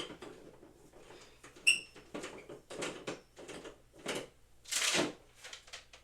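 Parts of boxing equipment being handled and fitted together during assembly, making a string of knocks and scrapes. A little under two seconds in there is one sharp metallic clink with a short ring, and near the end a longer, louder scrape.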